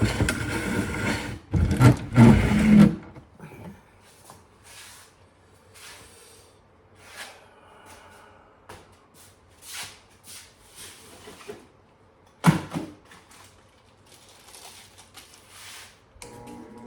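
Handling knocks and bumps, then a run of light, irregular strokes and scrapes while a knife is readied for honing, with one sharp knock about twelve and a half seconds in.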